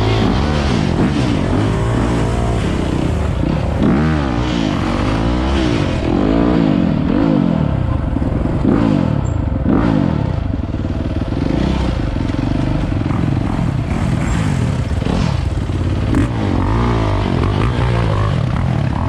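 Dirt bike engines revving, their pitch repeatedly rising and falling with several engine notes overlapping.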